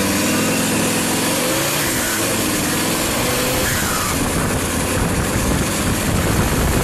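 GAZ-69 off-roader with a three-litre turbo engine, running hard and revving up and down.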